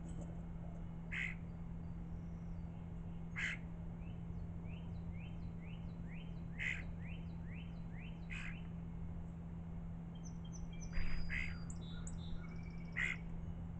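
Songbirds calling: a run of short rising chirps, with about seven short harsh calls spread through, the loudest about eleven seconds in. A steady low hum runs underneath.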